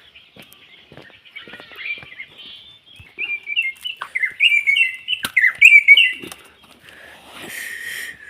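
Wild birds chirping and singing, with a burst of loud, quick repeated chirps from about three seconds in until about six seconds. A short hiss follows near the end.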